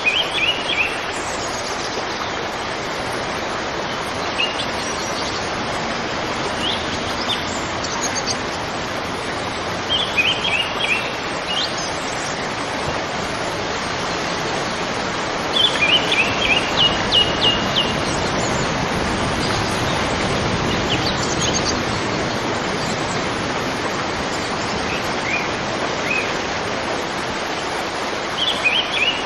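River water flowing over rocks, a steady rush. A bird calls in short clusters of quick high chirps every few seconds, the loudest run of rapid notes coming about halfway through.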